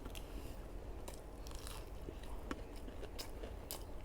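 Close-up eating sounds: chewing with small crisp bites and mouth clicks scattered through.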